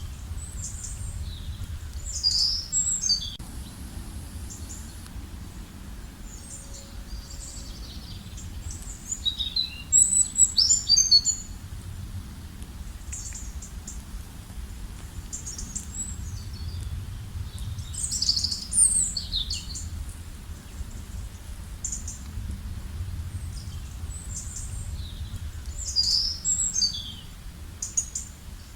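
A songbird singing a short phrase of quick, high, falling notes about every eight seconds, with fainter chirps between, over a steady low rumble.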